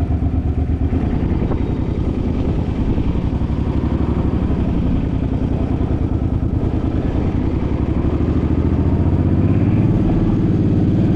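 Suzuki motorcycle engine running under way with a fast pulsing exhaust note, its pitch rising in the last few seconds as it speeds up.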